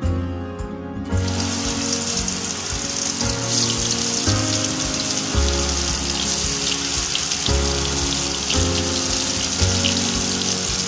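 Stuffed bitter gourds sizzling in hot oil in a wok, a steady hiss with small crackles that starts suddenly about a second in. Soft background music plays underneath.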